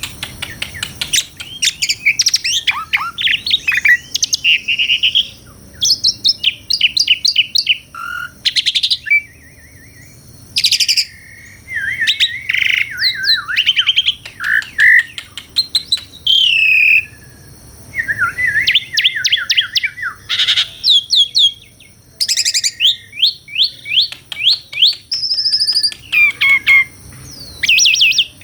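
Asian pied starling (jalak suren) singing a long varied song: fast runs of repeated chips, whistled glides and harsh notes, in phrases broken by short pauses.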